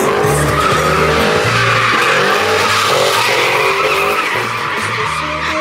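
Truck tires skidding and squealing in a burnout, a steady dense screech that holds at one level.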